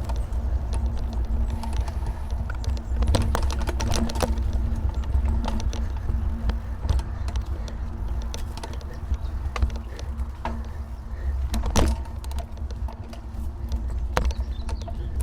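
Bicycle ride heard through a handlebar-mounted action camera: a steady low rumble of wind and road vibration, with scattered sharp rattles and knocks from bumps. The loudest knock comes about twelve seconds in.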